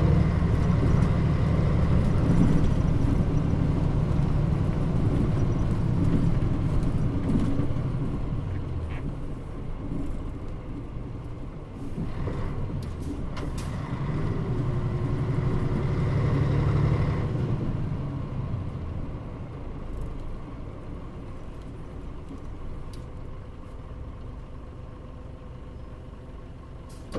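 Mitsubishi Fuso Aero Star KL-MP35JM bus running under way. The engine pulls strongly, eases off, and pulls again from about twelve to seventeen seconds in. It then winds down as the bus slows, growing quieter toward the end.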